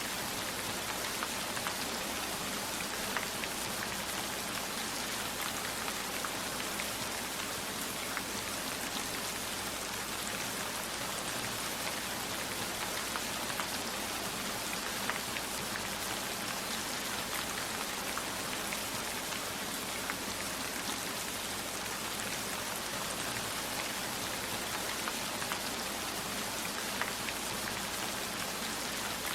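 Steady heavy rain: a dense, even hiss of rainfall with many small scattered raindrop ticks throughout.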